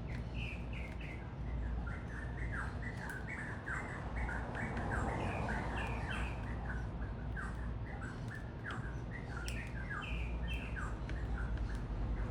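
Several small birds at a feeder chirping, a rapid scatter of short, high, downward-sliding chirps that overlap one another. Underneath runs a steady low rumble.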